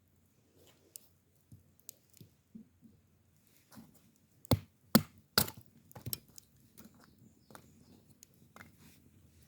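Three sharp knocks about half a second apart near the middle, a few lighter knocks after them, and scattered faint clicks throughout.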